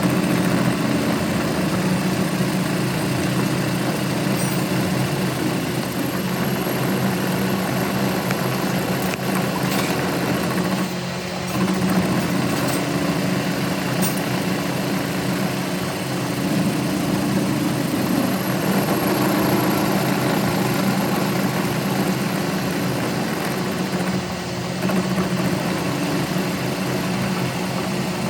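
A motor-driven workshop machine running steadily with a constant hum that dips briefly twice.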